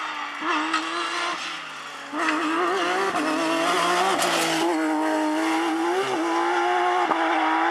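Porsche rally car's flat-six engine at high revs, pitch wavering with throttle lifts and blips, then growing much louder about two seconds in and holding a high, steady note with brief dips.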